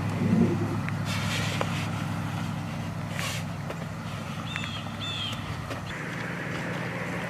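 A motor vehicle's engine running at a steady low drone, its note shifting about six seconds in, with a couple of brief hissing bursts and a few short bird chirps over it.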